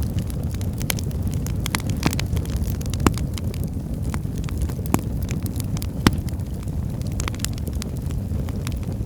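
Wood fire burning in a fireplace: a steady low roar of flames with scattered crackles and sharp pops from the burning logs, the loudest pops about three, five and six seconds in.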